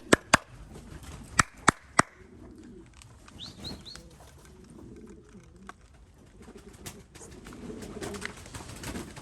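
Domestic pigeons cooing, with a few sharp clicks in the first two seconds and brief high chirps from a small bird about three and a half seconds in.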